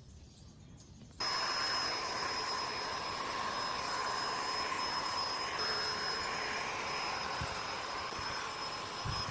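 A woodworking power tool's electric motor switching on about a second in and then running steadily with a high whine.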